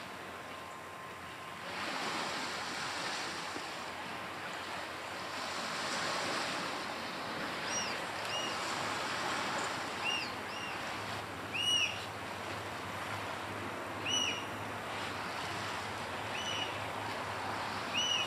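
Surf washing on a rocky shore as a steady hiss. From a little under halfway, a black oystercatcher gives sharp, arched whistled calls, singly or in pairs, every second or two.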